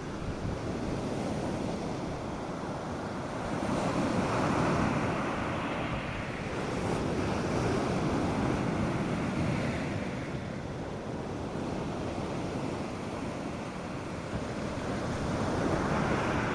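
North Sea surf breaking on a sandy beach. It is a steady wash that swells and falls back in three surges as waves come in.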